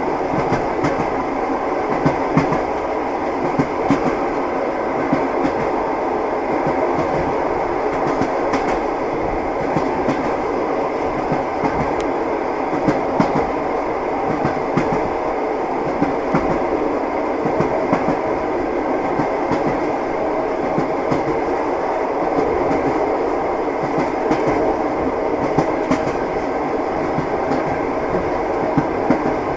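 Train wheels clattering over the rail joints, heard from inside a passenger compartment: a continuous running rumble with frequent small clicks and sharper clacks at uneven intervals.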